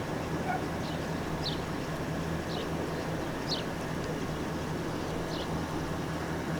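Water truck's engine running steadily with a low hum. Short, high, falling chirps sound about once a second over it.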